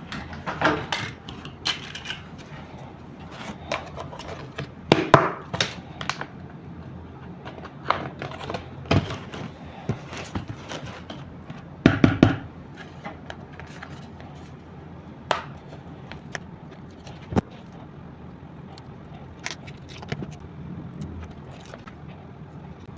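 Hard plastic toy pieces clicking and knocking against each other as they are handled, in irregular taps with louder clusters about a second, five seconds and twelve seconds in.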